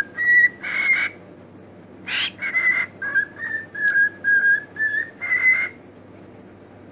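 Pet bird whistling a run of short, clear notes, nearly all at the same pitch, with one sharper upward-sweeping call among them. It falls quiet about a second before the end.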